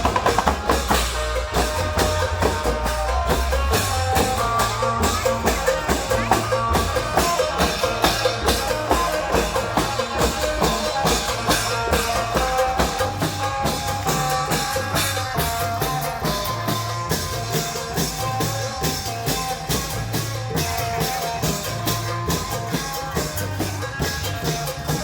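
Klong yao long-drum band music in the Isan style: dense, fast drumming with a pulsing deep drum, under a held melody line that steps from note to note.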